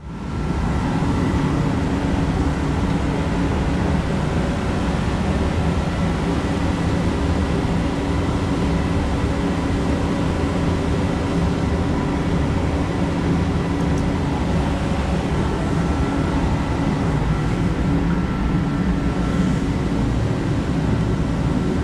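Hunter Original model 22272 ceiling fan with an oil-bath motor, running steadily at speed: a constant whir with a faint high whine over it. It is being run to throw off excess oil from the motor.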